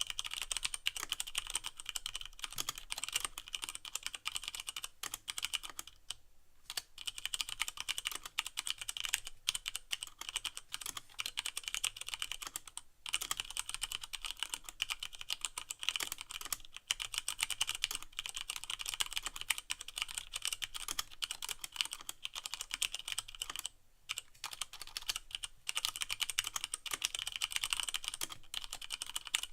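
Fast continuous typing on a Leopold FC660M mechanical keyboard with Cherry MX Brown switches and no O-rings: a dense run of crisp key clicks and bottoming-out clacks, broken by brief pauses three times.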